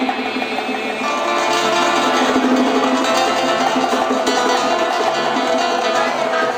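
Live old-school Cuban music led by acoustic guitar playing, with low bass notes coming in about a second and a half in.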